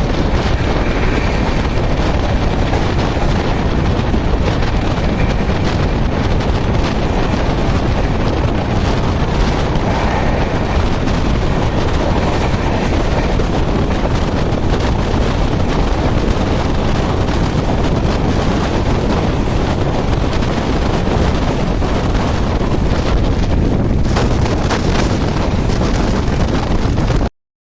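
Antyodaya Express train running at speed, heard from on board as a loud, steady rush of wind on the microphone over the running noise of the train. It cuts off suddenly near the end.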